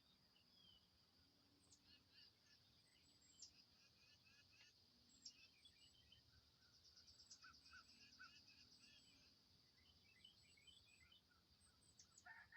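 Faint wild birdsong: several birds giving short chirps and calls, with a rapid trill in the middle, over a steady high-pitched hum.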